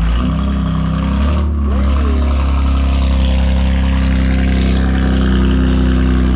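BMW S55 twin-turbo inline-six in an F80 M3, breathing through catless downpipes, a single midpipe and an open-valved axle-back, idling loudly and steadily with a deep exhaust drone.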